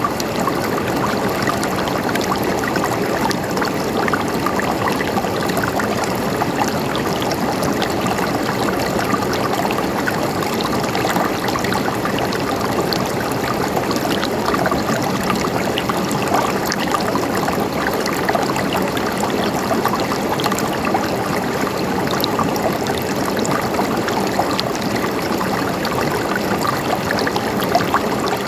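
Mountain stream running over rocks: a steady gurgling and trickling of flowing water with no change.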